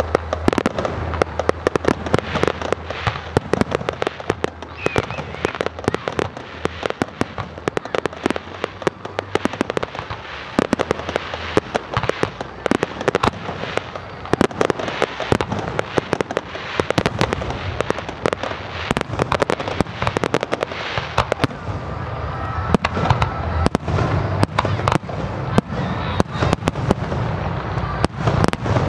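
Fireworks display: a dense, continuous barrage of bangs and crackling, many reports a second with no let-up.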